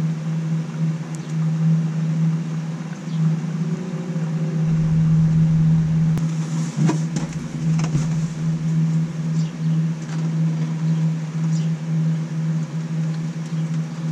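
Jeep's carbureted engine running at a steady idle, with scattered irregular clicks over the hum. The owner suspects the knock he is chasing is pre-ignition.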